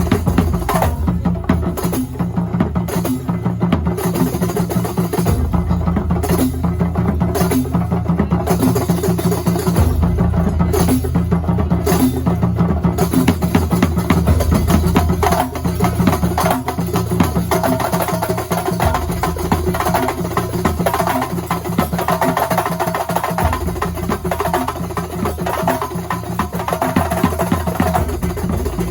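Kuntulan ensemble of Banyuwangi drums playing a fast, dense rhythm, with low drum booms under sharp, wood-block-like strokes; a higher melodic part joins past the middle.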